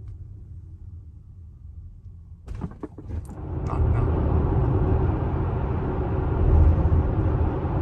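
Inside a moving Tesla Model X: a quiet low rumble of the car rolling, a few sharp knocks about two and a half seconds in, then tyre and wind noise that swells and stays loud.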